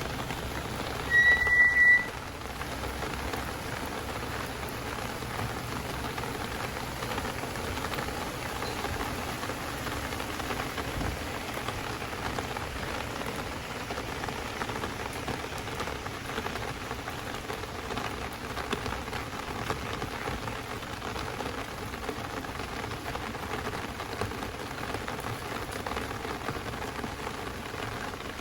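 Steady downpour of rain, an even hiss. About a second in, a loud high-pitched tone sounds for under a second and then cuts off.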